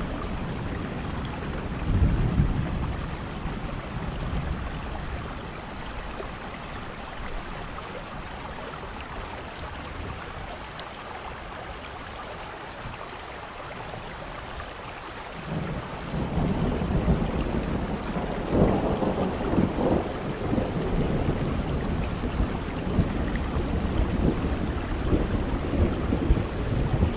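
Steady rain with low rolling thunder. The rumble eases off in the first half, then comes back louder about halfway through and keeps rolling.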